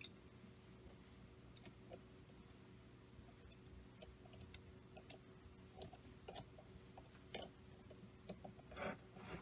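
Faint, irregular clicks and light taps of a hand tool on small metal parts as a nut on the model air engine's valve is backed off, a few of them sharper than the rest, over a faint steady hum.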